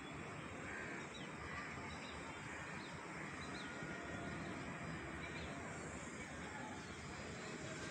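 Birds chirping faintly, scattered short high chirps, over a steady outdoor background hiss.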